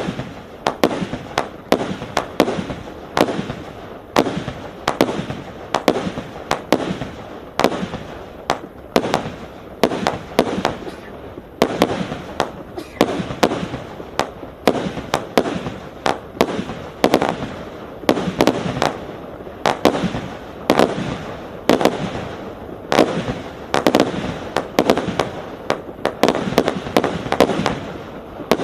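Hallmark 'Annual Gala' single-ignition consumer fireworks cake firing shot after shot: a steady run of sharp bangs, about two or three a second, each trailing off briefly.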